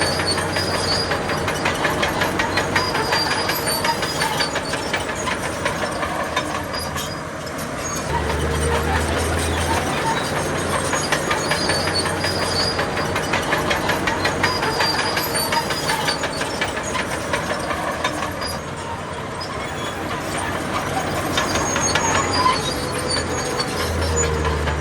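Crawler bulldozer at work: diesel engine running under load with the fast, steady clatter of its steel tracks. The engine note swells twice, about a third of the way in and again near the end.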